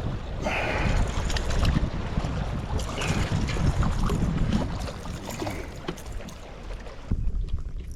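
Wind buffeting the microphone on the open water, a steady low rumble with louder gusts about half a second and three seconds in, easing near the end.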